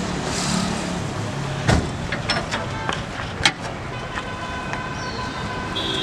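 A motor vehicle's engine running steadily at low revs, with two sharp knocks about two seconds and three and a half seconds in.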